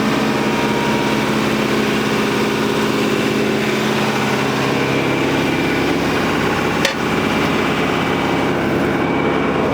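Tractor engine running steadily under a John Deere 485A backhoe as it is worked, with one sharp click about seven seconds in.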